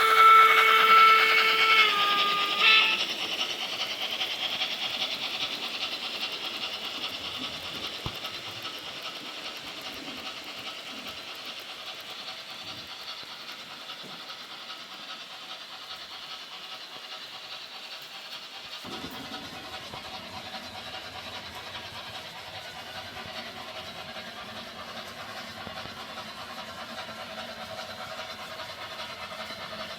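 Steam whistle of an H0 model class 50 steam locomotive, held for about two and a half seconds and dropping slightly in pitch before it stops. It is followed by the rattle and hiss of the model train running on the track, slowly fading. A low steady hum joins about two-thirds of the way through.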